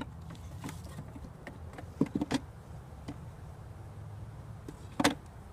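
Wooden beehive parts (frames and spacers) knocking and clicking as they are handled, with a cluster of knocks about two seconds in and a sharp knock near the end, over a low steady hum.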